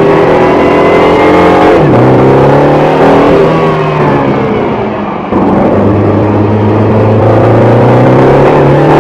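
Mini John Cooper Works GP3's turbocharged four-cylinder engine, heard from inside the cabin, pulling hard on track. The revs climb and drop sharply about two seconds in as it shifts up, then climb again. They fall away as the throttle eases, then pick up suddenly just past five seconds and climb steadily again.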